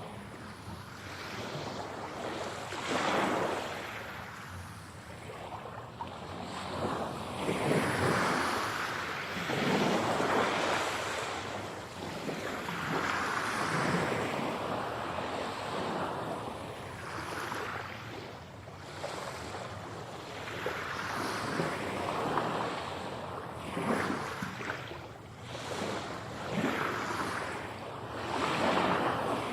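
Sea waves breaking and washing on a shore, surging and ebbing every few seconds in an even, continuous surf.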